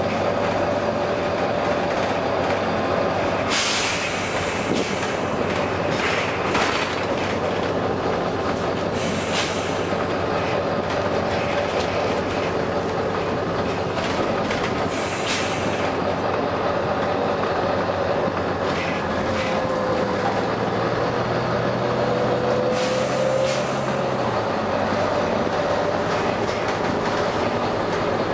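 Volvo B9TL double-decker bus running, its steady drive noise carrying a wavering whine, with several short air hisses from its air system, each about a second long, breaking in every few seconds.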